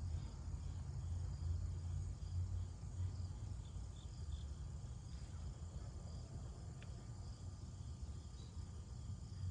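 Faint steady background of insects chirping over a low rumble.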